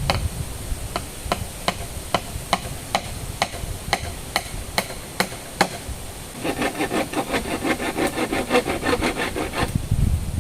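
A run of about a dozen sharp, even knocks, two to three a second, like tapping or chopping on wood or bamboo, then about three seconds of a fast rasping rattle.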